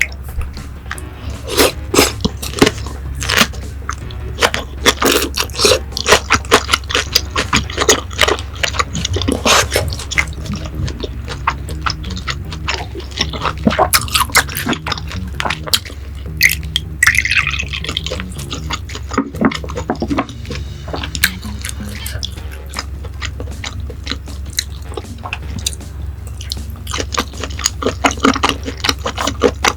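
Close-miked chewing and wet mouth sounds of someone eating grilled beef, with many irregular smacks and clicks, over a steady low hum.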